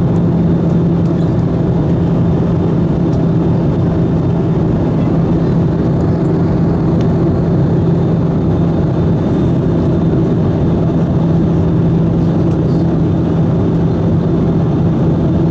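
Steady cabin noise of an Airbus A320-214 in flight: the CFM56 engines and rushing air make a constant loud drone with a steady low hum.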